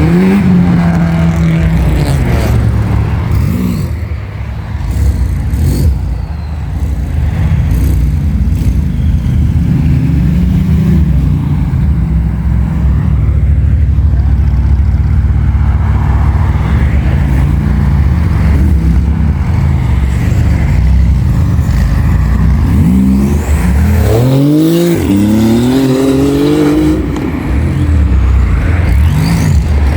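Supercar engines running loudly and revving, the pitch rising and falling several times, with a quick series of sharp revs about three-quarters of the way through.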